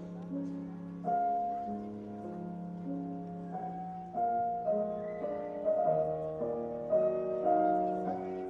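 Slow piano music, sustained chords and notes changing every second or so.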